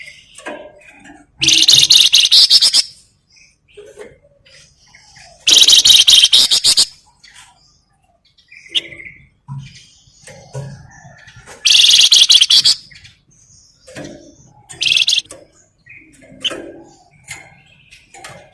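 Flamboyan songbird giving loud, rapid chattering rattles about a second long. They come three times: near the start, about six seconds in and about twelve seconds in. Softer short chirps and calls fill the gaps between.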